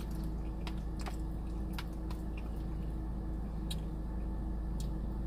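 Close-up mouth sounds of a person chewing food, with a few sharp wet clicks and smacks, over a steady low hum.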